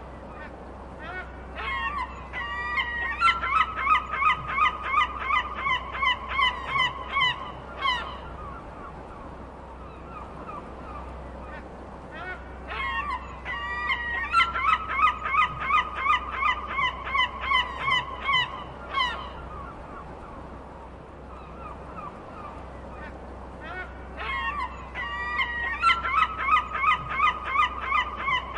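Domestic geese honking in three bouts of rapid repeated honks, about two to three a second and several seconds each, with quieter stretches between. A steady low hum runs underneath.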